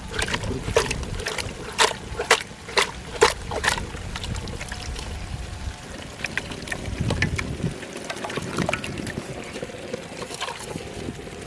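Metal ladle knocking against a kadai while stirring, about two sharp strikes a second for the first four seconds, then fewer. A steady rushing hiss runs underneath.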